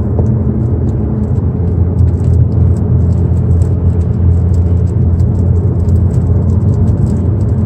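Moving car's steady low engine and road rumble, heard from inside the cabin.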